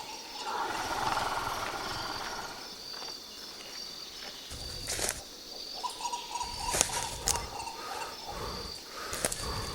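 Jungle soundscape: insects chirping steadily in a repeating pattern, a rough animal growl rising about a second in, and several sharp cracks later on.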